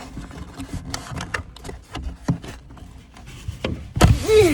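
Irregular knocks, taps and rubbing of close handling noise in a small space. Near the end comes a short voice-like sound that rises and falls in pitch.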